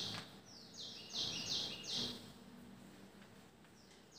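Faint bird chirping: a quick series of short, high chirps over the first two seconds, then one more near the end.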